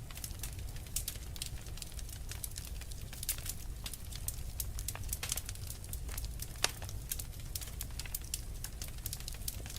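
Wood fire in a fireplace crackling, with dense irregular snaps and pops over a low steady rumble of flame, and one sharper pop at about six and a half seconds in.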